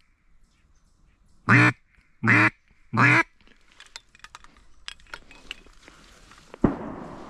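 Three loud, nasal duck quacks about 0.7 s apart, each a short pitched call. Near the end comes a single sharp bang that reaches every pitch and trails off in a noisy tail.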